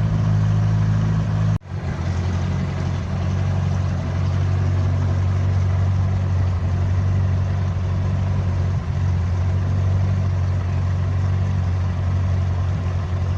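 Engine of a 1960 Freeman 22 river cruiser running steadily at a slow cruising pace, a low even hum, with a brief break about a second and a half in.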